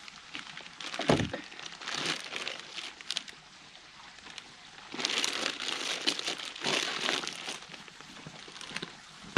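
Plastic freezer bags crinkling and rustling in irregular bursts as whole chickens are slid into them, with a thump about a second in.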